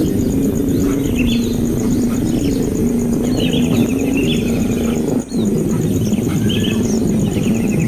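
Birds chirping and giving quick trills several times, with a steady high insect-like buzz, over a loud low droning hum that wavers slightly in pitch.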